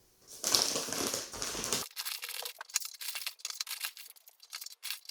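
Bird seed being handled and poured into a cut-open plastic milk bottle: a rustle of about a second and a half, then a scatter of many small quick ticks of seeds on the plastic.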